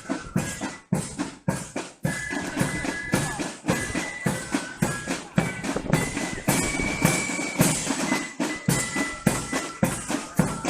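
Military corps of drums playing a march: fifes carry a high melody over side drums and bass drum beating in marching time.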